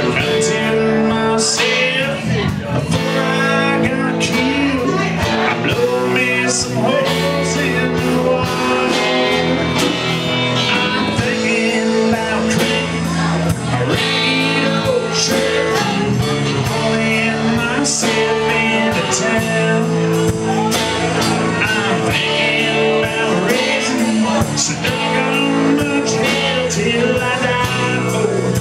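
A live band playing a song with a steady beat.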